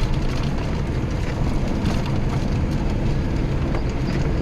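Inside the cab of a GAZelle Next van driving on a dirt road: steady low rumble of the engine and tyres, with scattered small rattles and knocks from the body over the rough surface.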